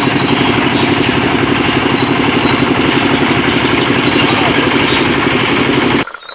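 A small engine running steadily with a fast, even chug, cutting off abruptly about six seconds in.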